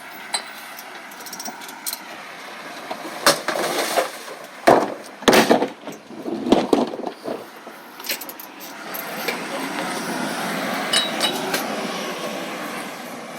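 Recyclables, glass among them, clattering and clinking as they are tipped into a recycling truck, in a cluster of sharp knocks over about four seconds. A steady mechanical noise from the truck then swells for a few seconds.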